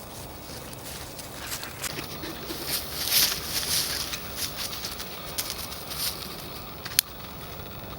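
Footsteps crunching irregularly over forest ground, with a swell of rustling in the middle and a single sharp click about seven seconds in.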